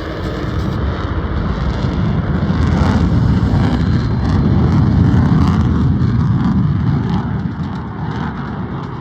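Jet roar of an F-35A's single Pratt & Whitney F135 afterburning turbofan as the fighter manoeuvres overhead. The deep, rumbling noise swells to a peak about halfway through, then eases slightly.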